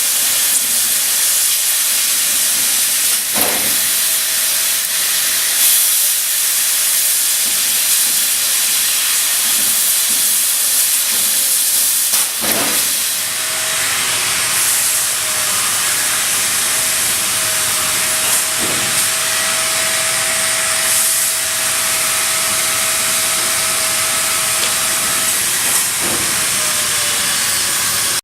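Amada FO3015 4 kW CNC laser cutting machine running with a steady, loud hiss. A few sharp clicks come at intervals, and a faint steady whistling tone runs through much of the second half.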